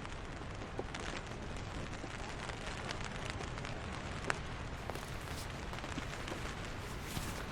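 Heavy rain falling steadily, with scattered sharper drop hits, one louder tap about four seconds in.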